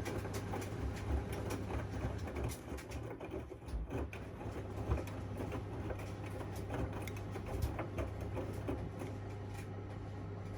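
Washing machine running: a steady low hum with irregular knocks and clatter from the turning drum.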